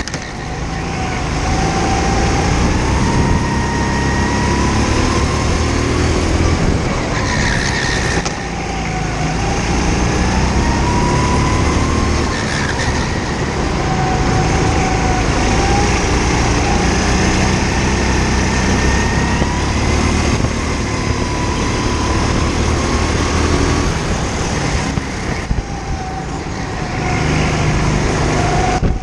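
Go-kart engine heard from on board the kart, its pitch rising and falling as it speeds up and eases off through the laps, with brief drops in level about eight, twelve and twenty-five seconds in.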